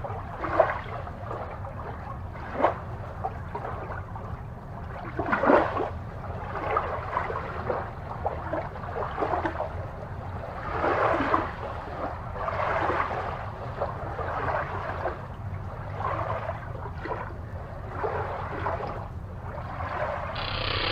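Aquarium water bubbling and trickling in irregular splashes over a steady low hum, with a louder, steadier rush coming in right at the end.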